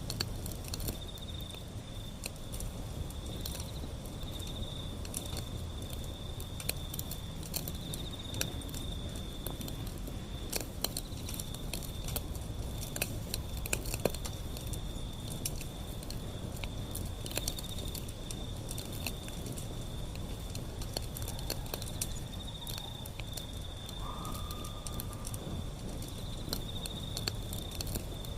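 Wood fire burning, with frequent sharp crackles and pops over a low steady rumble of the flames. A steady high-pitched trill runs behind it.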